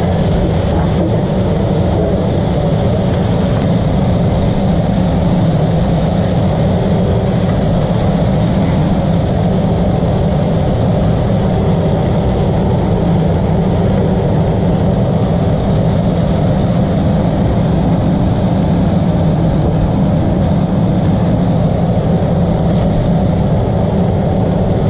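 Steady, loud mechanical drone with a strong low hum, unchanging throughout.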